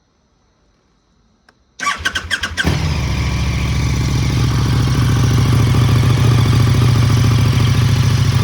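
KTM 1290 Super Duke RR's V-twin engine, fitted with a new Spark Konix Evo titanium exhaust, cranking briefly on the starter about two seconds in, catching under a second later and settling into a steady idle with a deeper exhaust note.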